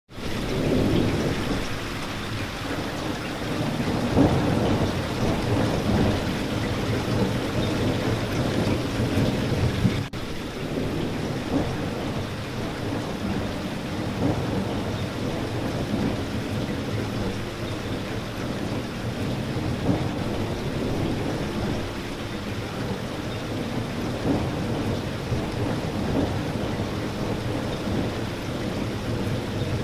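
Steady rain falling, with a low rumble underneath that is heaviest in the first ten seconds. There is a brief drop-out about ten seconds in.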